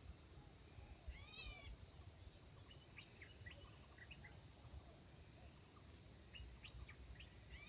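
Faint bird calls: a quick run of high, repeated chirping notes about a second in and again at the end, with scattered short chirps in between, over a low rumble.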